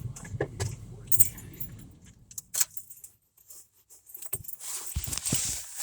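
Keys jingling and clicking while the mail key is picked out, a scattered run of small metal clinks.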